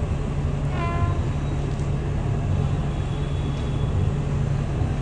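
Train running by on the track, a steady low rumble and rolling noise without let-up. A brief pitched sound cuts in about a second in.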